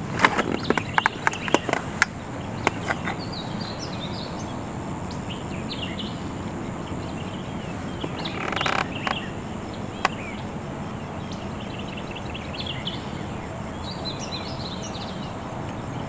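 Wild songbirds chirping and singing in quick, repeated short notes over a steady outdoor hiss, with one brief lower call just past halfway. A quick run of sharp clicks and knocks opens it, and a single click comes about ten seconds in.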